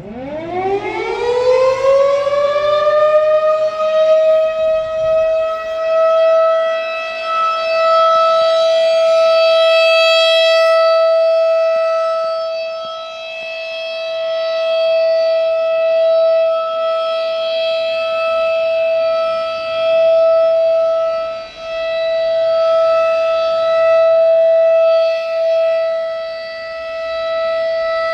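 Outdoor civil-defense warning siren winding up: its pitch rises steeply over the first few seconds, then it holds one steady wailing tone. Its loudness swells and fades, with deeper dips now and then.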